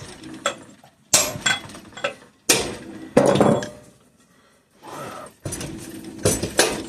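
Hammer striking a steel punch in irregular sharp metallic taps with a short ring, driving the stuck timing gear back onto the crankshaft of a Kohler opposed-twin engine. The taps pause for about a second near the middle.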